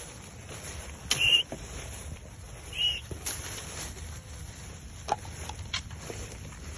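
Two short, high chirps, about one and three seconds in, over a steady low rumble, with a few light clicks near the end.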